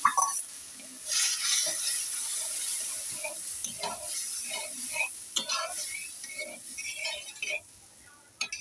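Boiled lentil dal sizzling in hot spiced oil in a kadai, with repeated stirring and scraping strokes against the pan; the sizzle fades near the end.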